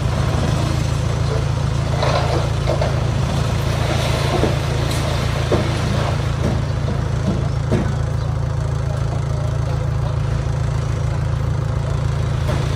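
Heavy diesel engine of earthmoving equipment running steadily at a low pitch, with a few short knocks and clatters between about 2 and 8 seconds in.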